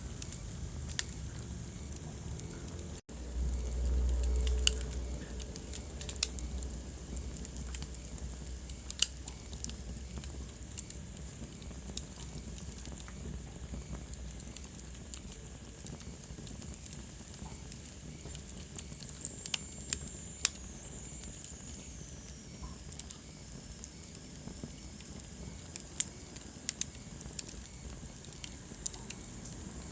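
Wood fire crackling in a fireplace: a steady soft hiss with frequent sharp snaps and pops scattered throughout. A low rumble comes in for a couple of seconds just after a brief dropout about three seconds in, and a faint high whistle slides down in pitch a little before the middle.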